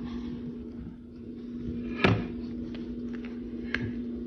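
A steady low hum, with a sharp knock about two seconds in and a lighter click near the end.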